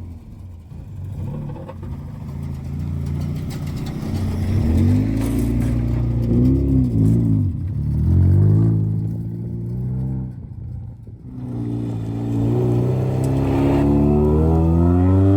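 Honda Civic hatchback's four-cylinder engine revving, its pitch swinging up and down with the throttle in the middle, then climbing steadily through the last few seconds as the car accelerates.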